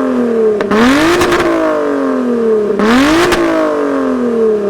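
High-performance car engine revved hard twice: the revs climb sharply, then fall back slowly each time.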